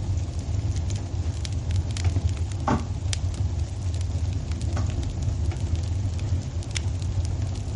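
Wood fire in a fireplace crackling, with scattered sharp pops over a steady low rumble of the flames. A short falling whistle sounds about three seconds in.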